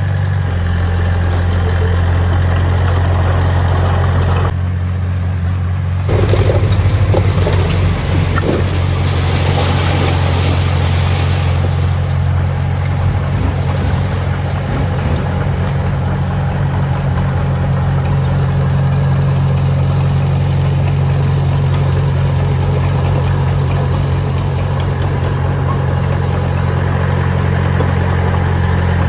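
Heavy diesel engine of earthmoving machinery running steadily, with a deep, even drone. It drops briefly about four seconds in, then comes back louder with extra mechanical noise for several seconds before settling.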